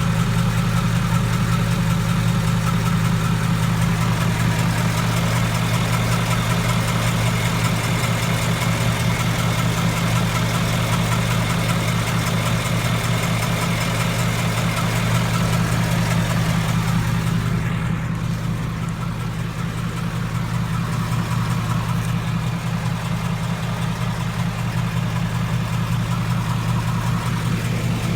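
2015 Mustang GT's 5.0-litre V8 idling steadily, with a light ticking from the passenger-side cylinder head. The owner assumes the tick is a cylinder-head fault like the one Ford recalled on the 2003 Cobra.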